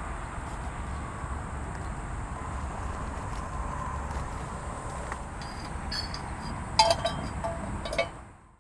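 Outdoor ambience with a steady faint insect drone and low rumble; a few sharp clinks of cookware or glass come near the end, then the sound cuts off.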